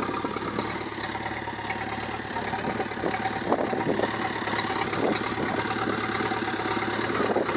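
Backhoe loader's diesel engine idling steadily, with a few light knocks about halfway through.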